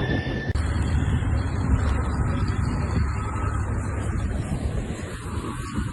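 An emergency vehicle siren holding a high tone, cut off about half a second in, followed by the steady low rumble of a vehicle.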